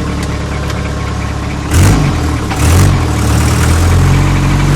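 Isuzu 4BE1 3.6-litre four-cylinder diesel running in a Land Rover, its exhaust louder for a hole in it. About two seconds in it gives two short loud bursts of revs, then runs on a little faster and louder.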